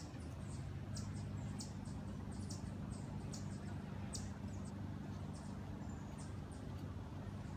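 Small birds chirping: short, high chirps, several a second and irregularly spaced, with one brief thin whistle near the end, over a steady low rumble.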